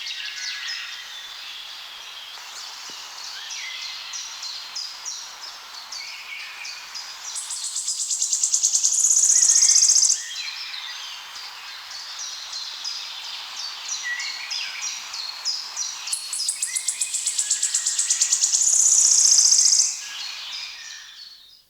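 Wood warbler singing twice: a run of high, quick ticking notes that speeds up into a loud, shivering trill, with other songbirds chirping in the background. The recording fades out near the end.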